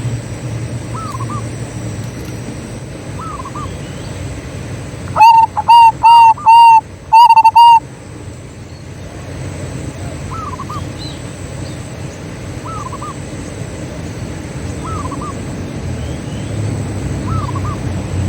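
Zebra dove (perkutut) cooing: a loud phrase of about six quick, evenly pitched notes about five seconds in. A fainter short bird call repeats about every two seconds throughout, over a low steady hum.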